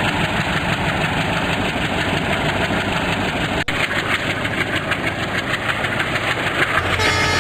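Train engine running steadily, a dense mechanical rumble with a brief drop-out about three and a half seconds in and a change to steadier tones near the end.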